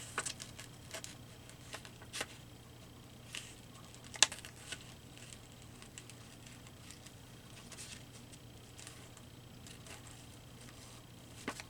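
Paper cutouts and book pages being handled on a craft table: soft rustling with a few light taps and clicks, the sharpest about four seconds in, over a faint steady hum.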